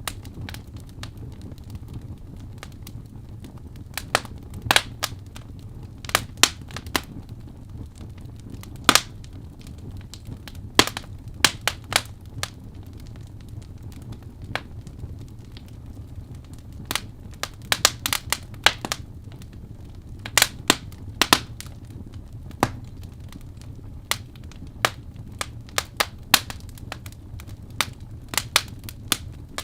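Wood fire burning in a fireplace: a steady low rumble of flames under irregular sharp crackles and pops, some coming in quick clusters.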